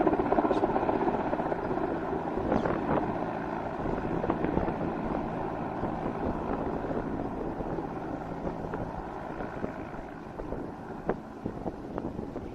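Mi-17 V5 helicopter, its twin turboshaft engines and rotor running steadily in flight, gradually fading as it moves away.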